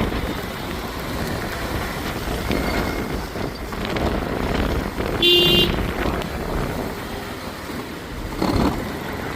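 Street traffic running steadily, with a vehicle horn sounding once, briefly, about five seconds in.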